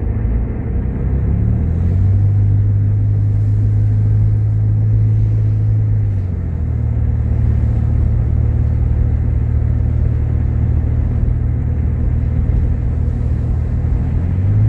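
Motor vehicle engine droning steadily under road noise while driving. Its pitch steps up about two seconds in and eases slightly lower around six seconds.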